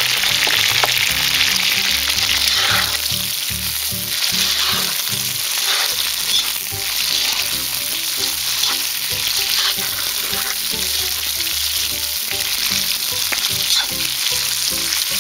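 Sliced onions and pieces of meat sizzling loudly in very hot oil in a cast-iron kazan, with a few scrapes of a metal spatula stirring them. This is the first hard fry of the onion for Uzbek plov.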